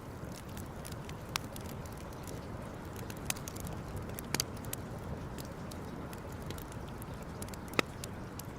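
Campfire crackling, with a few sharp pops at irregular intervals, the loudest near the end, over a steady background rush.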